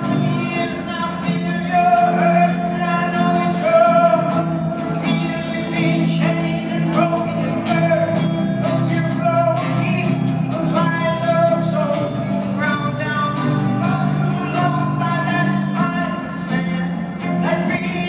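Live concert music: singing over a low sustained drone, with steady percussion strokes and echo from a large hall.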